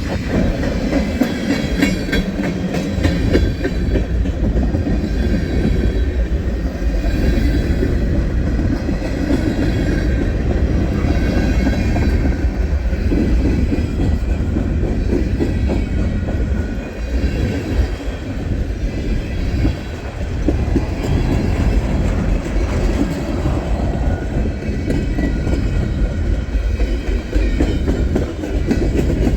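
Freight train of tank cars rolling past, a steady heavy rumble with the clatter of wheels over the rail joints.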